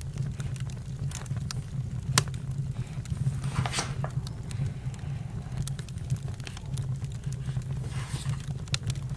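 Campfire crackling: a steady low rumble of burning wood with scattered sharp pops, one louder snap about two seconds in, and brief louder flares a little before four seconds and near eight seconds.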